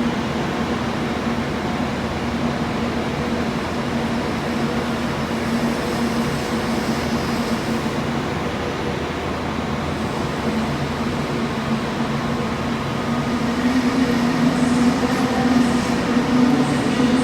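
A train at a station running with a steady hum, which grows louder over the last few seconds.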